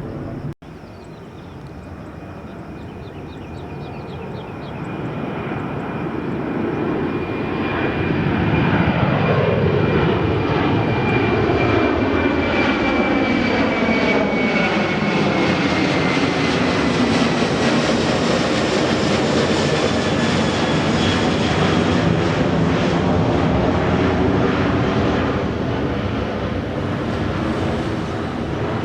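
Jet airliner passing close by on the runway, its engine noise swelling up over the first several seconds, holding loud, then easing off near the end. A high engine whine slides slowly down in pitch as the plane goes past.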